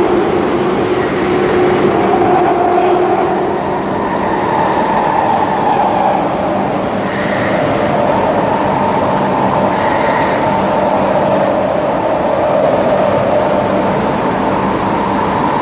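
Alstom 1996 Stock Jubilee line tube train running, heard from inside a carriage: a steady rumble and wheel noise under a motor whine that rises a little and then eases back.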